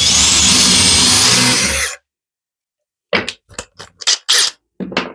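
Handheld power drill boring a hole through scrap-wood sticks held in a jig, running under load for about two seconds with a whine that wavers and climbs. After a short pause come several sharp knocks.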